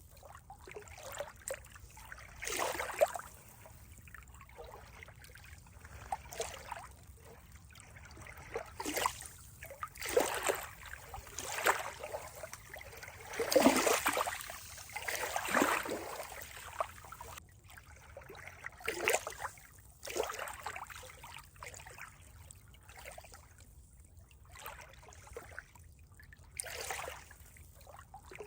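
Water trickling and splashing in uneven swells and gurgles.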